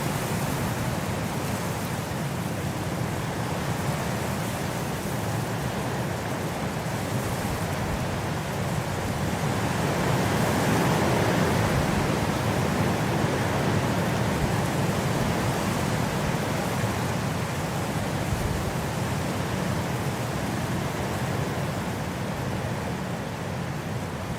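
Wind blowing steadily, swelling into a stronger gust about ten seconds in and slowly easing back.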